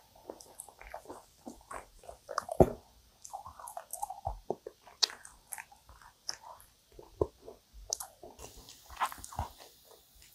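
Close-miked mouth sounds of chewing dense, sticky yakgwa (Korean honey-fried cookie) with ice cream: irregular wet smacks and clicks, one sharper smack about two and a half seconds in.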